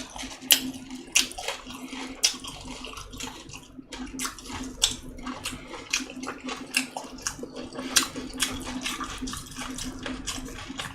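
A person eating close to the microphone: wet chewing and smacking, with irregular sharp clicks every half second or so.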